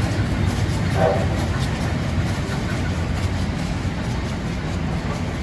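Train running on rails: a steady low rumble with faint regular clicking that slowly eases. A brief pitched squeal sounds about a second in.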